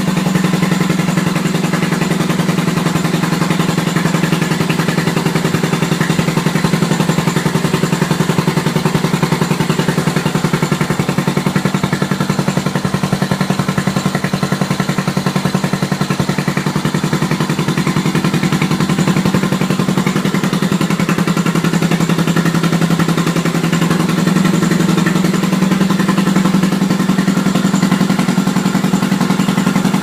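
Yamaha SR's air-cooled single-cylinder four-stroke engine idling steadily on its first run in a build that is still unfinished. A steady, even rumble of firing pulses that holds at the same speed throughout.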